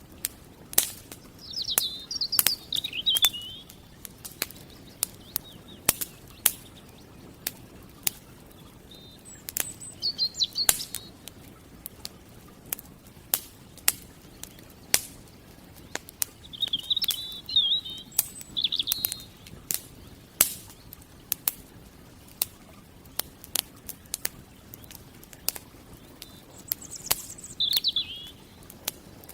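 Campfire crackling, with sharp pops scattered irregularly throughout, while a songbird sings short warbled phrases several times.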